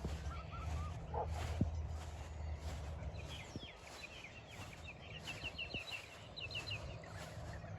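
Faint outdoor sounds: a bird twittering in quick runs of short chirps through the middle, over a steady low rumble and a soft rhythmic rustle about twice a second.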